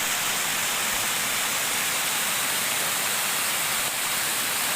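Steady, even rushing of flowing water, with no changes.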